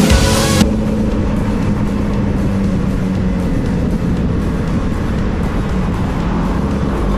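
Background music cuts off under a second in, leaving a carbureted Honda Hornet's inline-four running at a steady cruise with wind rush on the rider's microphone.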